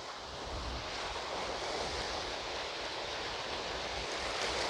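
Sea surf washing onto the shore: a steady rush of breaking waves that swells a little near the end, with wind gusting on the microphone.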